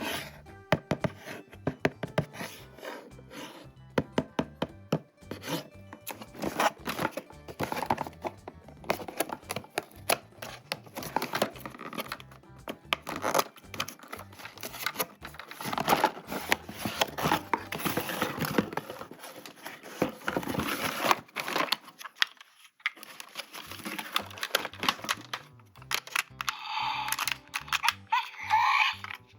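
Plastic toys and packaging being handled: a dense run of small clicks, snaps, scrapes and crinkling.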